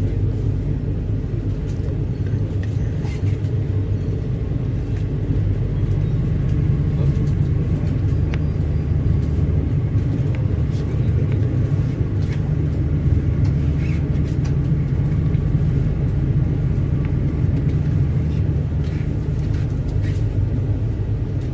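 Steady low rumble of a passenger train, with a few faint ticks over it.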